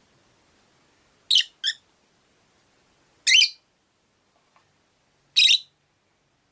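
Rosy-faced lovebird giving shrill, short calls: a quick pair about a second in, then single calls spaced about two seconds apart.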